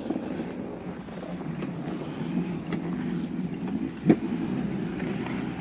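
Electric mini dirt bike's motor and chain drive running steadily as it pushes through snow, with wind buffeting the microphone. A single sharp knock about four seconds in.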